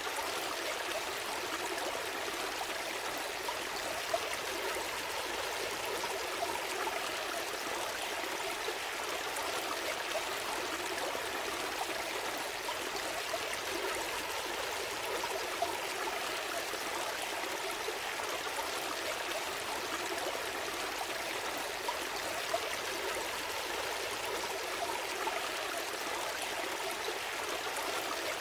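A small stream flowing steadily, with a continuous burble and trickle of water over stones, broken only by the odd brief splash.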